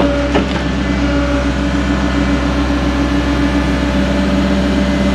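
Diesel engine and hydraulics of a new Caterpillar excavator running steadily while it digs, a constant hum with a steady droning pitch.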